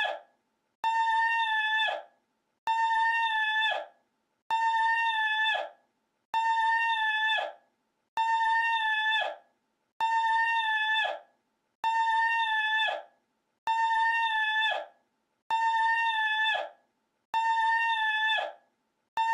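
The same short pitched cry, about a second long and held on one steady note before dropping off at the end, repeats identically about every two seconds as a loop of one recorded clip.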